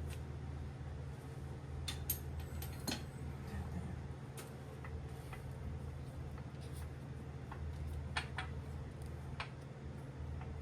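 Scattered light metallic clicks and clinks of engine parts and hand tools being handled, a few strong ones at about two and three seconds in and again near eight and nine seconds, over a steady low hum.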